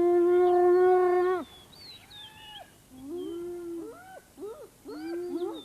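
Spotted hyena whooping: one long, loud call held at a steady pitch for about a second and a half, then a run of quieter, shorter whoops that swoop up and fall away. The whoop is the hyena's contact call, keeping it in touch with the rest of its clan.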